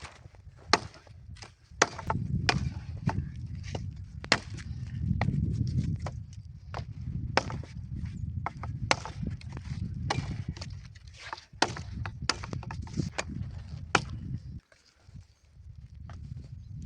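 Wood cracking and snapping in sharp, irregular cracks, a couple of dozen over the stretch, with an uneven low rumble underneath.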